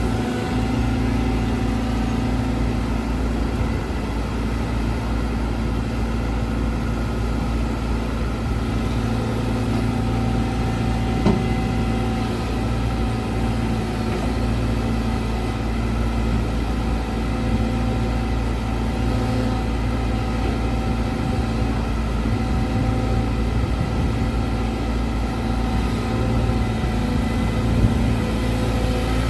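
Caterpillar 313GC excavator's diesel engine running steadily, with one brief sharp click about eleven seconds in.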